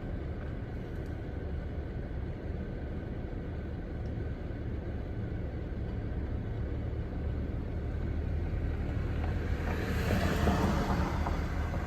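Car road noise heard from inside a moving car: a steady low rumble of engine and tyres, with a louder rush of noise swelling and fading about ten seconds in.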